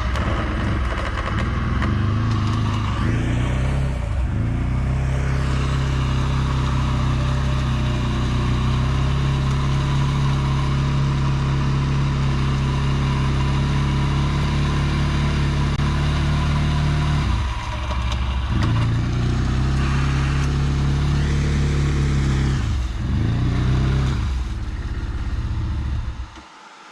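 Off-road vehicle engine running at steady high revs under load, easing off briefly twice, then dropping away sharply near the end.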